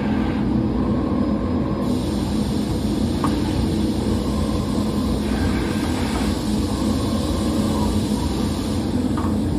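Steady, loud machinery rumble with a constant low hum: the general running noise of a factory floor.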